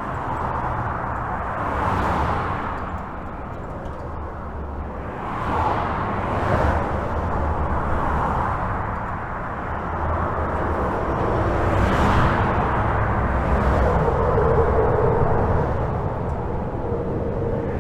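Highway traffic heard from under a bridge: a steady deep rumble of tyres and engines, with a swell each time a vehicle passes, about six in all. A faint steady hum joins in about fourteen seconds in.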